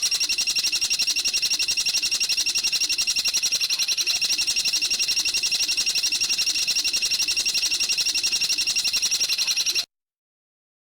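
Bird giving a high-pitched, rapid, mechanically even trill of about eight notes a second. It holds steady for nearly ten seconds, then cuts off suddenly.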